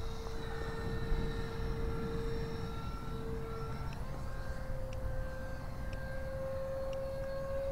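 Whine of a Freewing F-16's 64 mm electric ducted fan, driven by a 3300 kV motor, as the RC jet flies. The whine holds steady, then steps up in pitch about four seconds in as the throttle is raised and keeps rising slowly.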